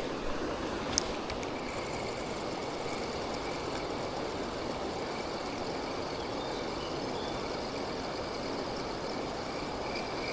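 Steady rush of water pouring over a weir, with one sharp click about a second in.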